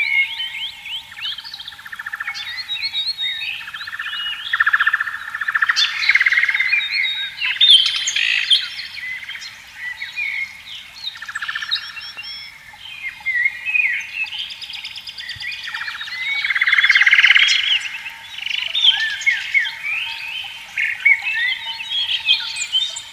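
A dense chorus of birds chirping and calling over one another, with a frog trilling in rapid pulsed bursts of one to two seconds, several times, one swelling louder near the end.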